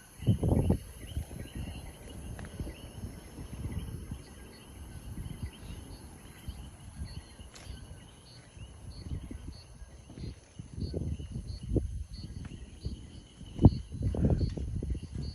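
Steady chorus of calling insects in several high pitches, with a short chirp repeating roughly every second. Low gusts of wind rumble on the microphone, loudest at the start and near the end.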